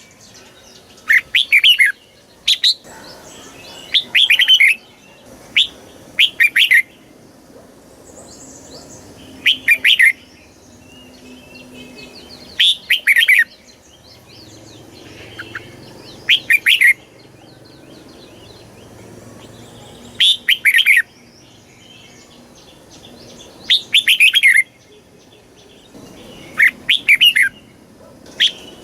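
Red-whiskered bulbul singing: short, loud, warbling whistled phrases repeated every two to three seconds. It is the kind of song played to caged bulbuls to stimulate them or teach them to sing.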